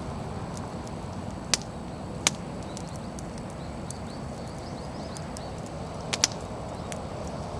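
Wood bonfire burning with a steady low rush and sharp crackling pops of the firewood: one single pop, then another, and a quick double pop later on.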